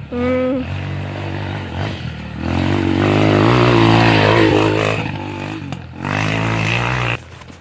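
Small off-road vehicle's engine revving as it rides past. Its pitch rises and falls with the throttle and it is loudest midway. The sound stops abruptly near the end.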